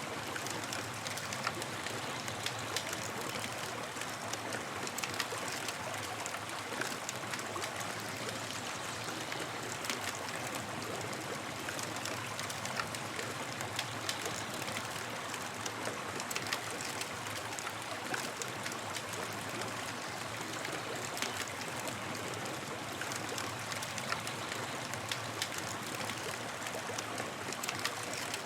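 Campfire crackling: a steady hiss with frequent small pops and snaps scattered through it.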